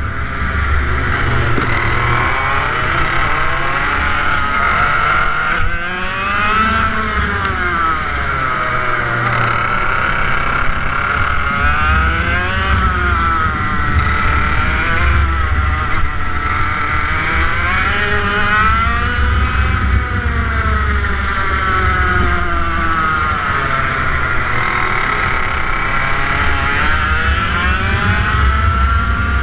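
TM K11B 100cc water-cooled two-stroke kart engine running hard, its pitch rising as it revs up and falling as it comes off the throttle, over and over.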